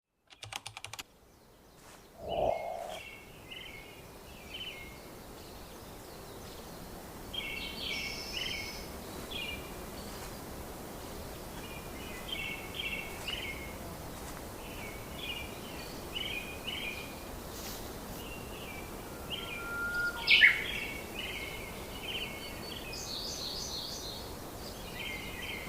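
Songbirds chirping in short repeated phrases over a steady outdoor background hiss. A short lower sound comes about two seconds in, and one louder, rising call stands out about twenty seconds in.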